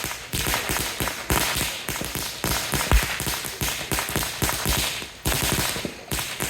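Fireworks going off in a rapid barrage of sharp bangs and crackles, several a second without a break, with one louder bang about three seconds in.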